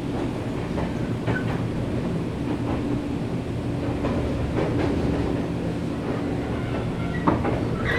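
Nankai 7100-series electric train rolling along the track, with a steady rumble, a low hum, and an occasional clunk of the wheels over rail joints or points, three times.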